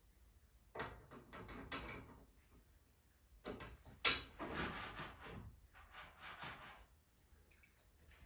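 Knocks, clanks and rattles of tools and hardware being handled while a garage door torsion spring is fitted. They come in two clusters, about a second in and again from about three and a half seconds, with the sharpest knock just after four seconds.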